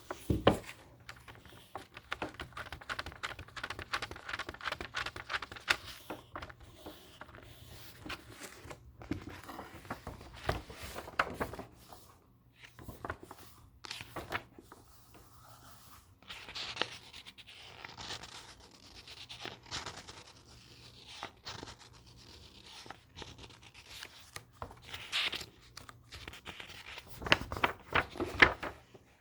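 Paper book pages being handled and turned by hand: crisp rustling with sharp taps and scratches on paper, and a burst of louder rustling near the end.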